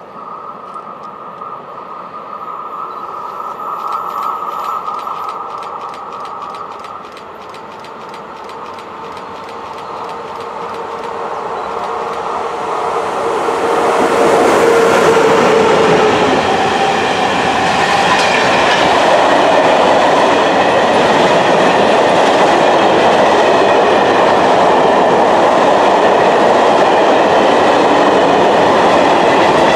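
VR Sr3 electric locomotive hauling a freight train, approaching and passing at speed: the sound builds steadily, is loudest as the locomotive goes by about halfway through, then carries on as a steady rumble and clatter of the freight wagons' wheels on the rails.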